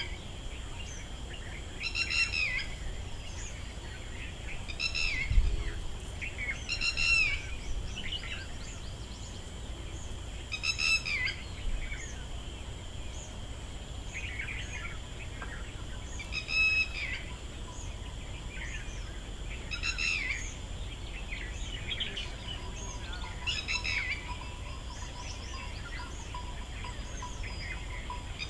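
Birds calling in short, repeated phrases, a call every two to three seconds, over a steady high-pitched drone.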